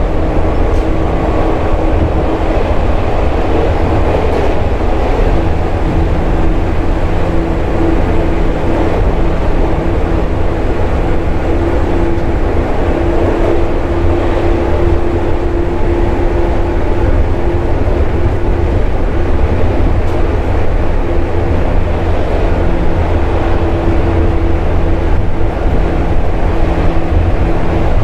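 JR 415 series electric multiple unit heard under way from on board: a steady, loud low rumble of wheels on track, with a constant motor-and-gear hum that swells and fades slightly.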